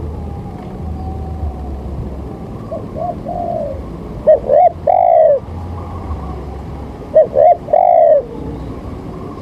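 A bird calling: a faint phrase about three seconds in, then two loud phrases about three seconds apart, each two short arched notes followed by a longer, held one. A steady low hum runs underneath.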